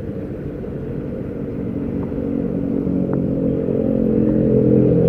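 A motorcycle or scooter engine running, growing steadily louder from about two seconds in.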